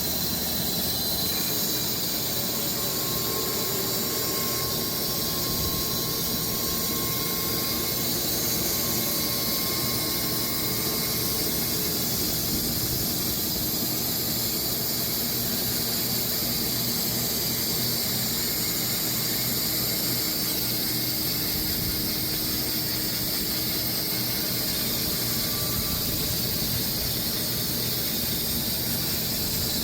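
Sawmill cutting through a large walnut log: a steady, unbroken high-pitched whine and hiss as the blade runs through the cut.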